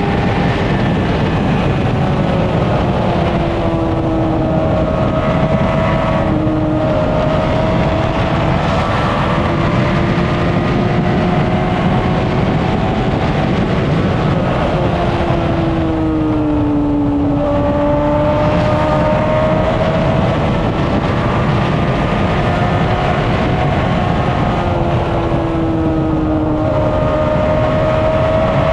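Honda CBR600RR's inline-four engine running at highway speed under heavy wind rush. Its pitch climbs and falls with the throttle, dipping at about six seconds in and again about two-thirds of the way through.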